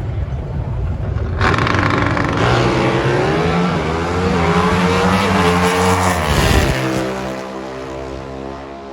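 Pro Stock drag-racing motorcycles launching hard and running up through the gears. Engine pitch climbs in steps with each shift, then cuts off abruptly near the end and the remaining engine sound fades away.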